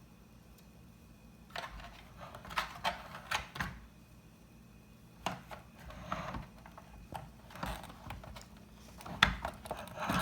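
Small plastic toy pieces being handled, giving scattered clicks and short rattles that start about a second and a half in.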